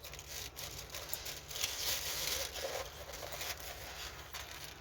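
Rustling and crinkling of a stiff diamond painting canvas and its plastic packaging being handled, loudest about two seconds in.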